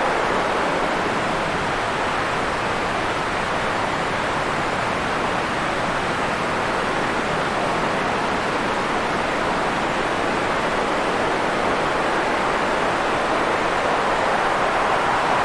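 Steady white-noise hiss, even and unbroken, with most of its energy in the middle range and no rises, drops or separate sounds.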